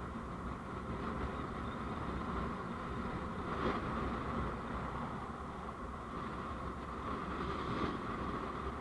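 Steady road noise of a moving vehicle: engine and tyre rumble with a constant hiss. Two brief louder swells come about three and a half seconds in and near the end.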